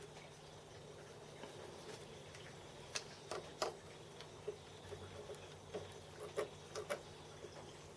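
Irregular light clicks and taps from hands working on small metal parts and tools, starting about three seconds in, a few louder than the rest.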